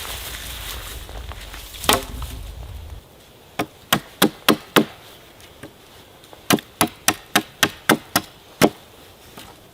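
Wood being chopped with quick, sharp strikes, about three a second, in two runs with a short pause between. Before the strikes there is a steady rushing background with low rumble and a single knock, and this cuts off abruptly about three seconds in.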